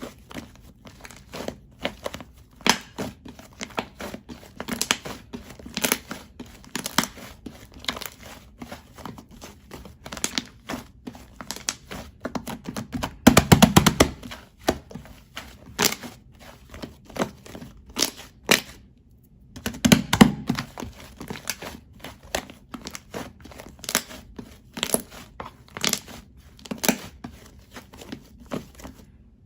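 Sticky white slime squeezed, poked and stretched by hand, giving irregular sticky clicks and pops. There are denser runs of crackling about 13 seconds in and again around 20 seconds.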